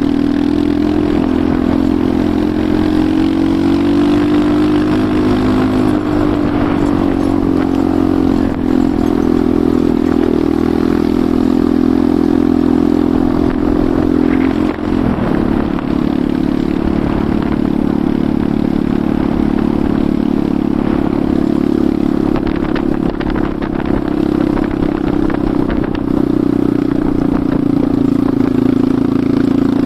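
Enduro motorcycle engine running steadily under way. Its pitch rises and eases back a little, with a brief dip about halfway.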